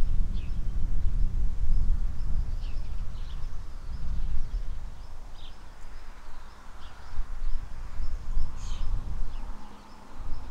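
Small birds chirping now and then in short, high calls over a low, gusty rumble.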